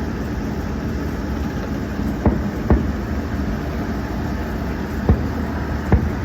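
Distant fireworks going off: four sharp thumps, a pair about two seconds in and another pair around five to six seconds in, over a steady low rumble.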